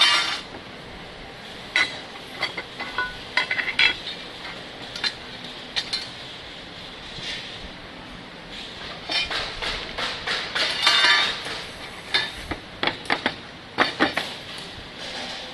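Light metallic clinking and rattling in irregular bursts over a steady background hum, from thin metal radiator core parts being handled and knocked together.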